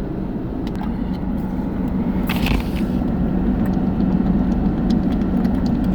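A car running: a steady low rumble and hum that grows slightly louder, with a short hiss about two and a half seconds in.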